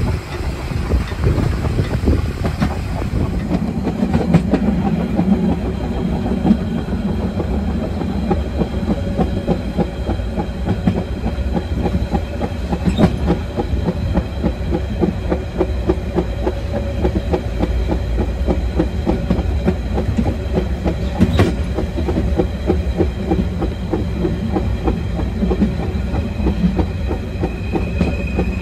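Harz metre-gauge steam train's carriages running at speed, the wheels clattering steadily over the track. A faint high wheel squeal creeps in near the end as the train takes a curve.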